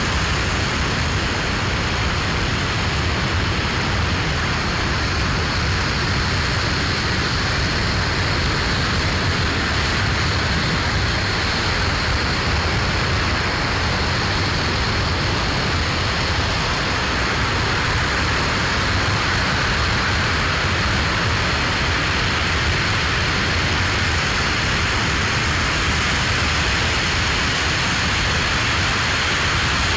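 Aerojet Rocketdyne RS-25 liquid-hydrogen and liquid-oxygen rocket engine firing on a test stand, a steady noise that holds one level without change.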